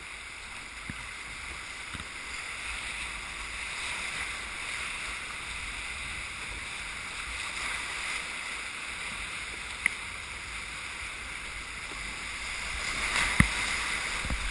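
Steady rush of river whitewater, swelling near the end. A small click about ten seconds in and a sharp knock shortly before the end.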